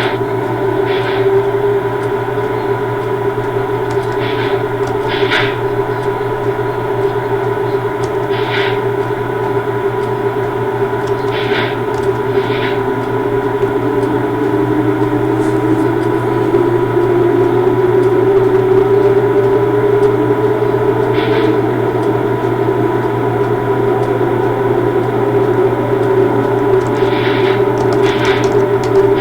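Railway locomotive running with a steady, many-toned electrical hum. About halfway through, a second whine rises slowly in pitch, as when the engine or traction motors pick up, and short high squeaks sound now and then.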